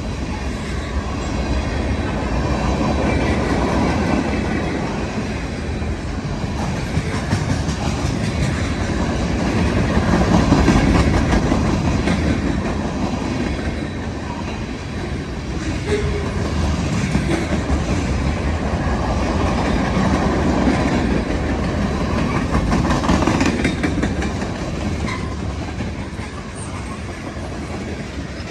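Westbound BNSF manifest freight train's cars rolling past on the tracks: a continuous rolling rumble that swells and eases every few seconds as the cars go by.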